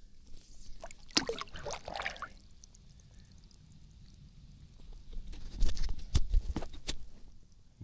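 Water splashing and dripping as a largemouth bass is released by hand from a kayak back into the lake, in two spells: about a second in, and again louder from about five to seven seconds in.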